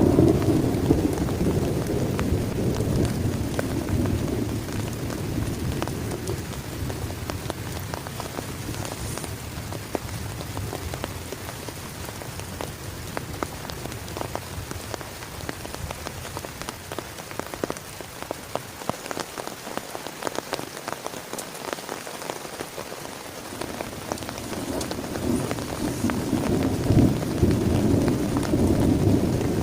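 Heavy rain falling steadily on a plastic tarp, with many individual drops tapping. Thunder rumbles at the start, dies away over several seconds, and rolls in again near the end.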